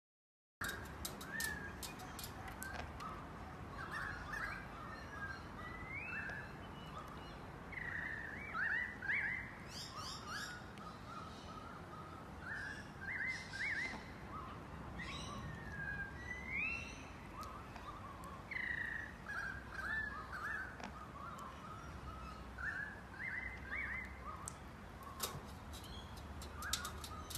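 Birds calling outdoors: short rising chirps and whistles, over and over, with a few sharp clicks near the start and near the end.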